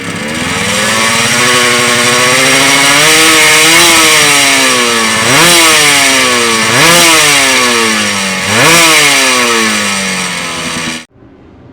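Two-stroke racing motorcycle engine being revved while standing: the revs climb, then it is blipped three times about a second and a half apart, each rev falling away again. The sound cuts off suddenly near the end.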